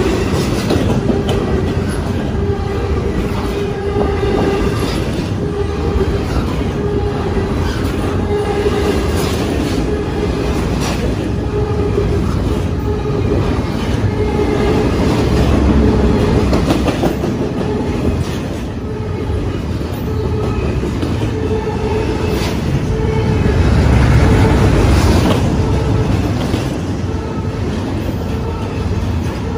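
Double-stack intermodal freight train's well cars rolling past close by: a steady rumble and clatter of steel wheels on the rails, swelling louder twice. A steady squeal from the wheels comes and goes.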